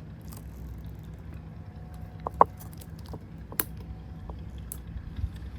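A few short, sharp clicks of scissors snipping a succulent stem, with light handling of the plant, the clearest click a little past the middle.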